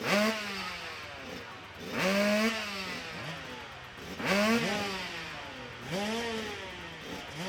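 Motorcycle engine revved in four throttle bursts about two seconds apart, each rising quickly in pitch and then falling away.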